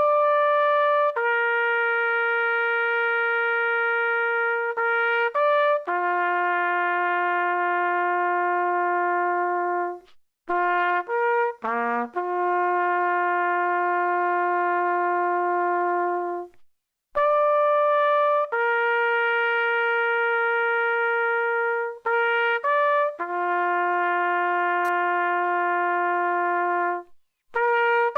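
Trumpet playing a slow melody of long held notes joined by short quick notes, with the same phrase played twice, as an example of the instrument's timbre.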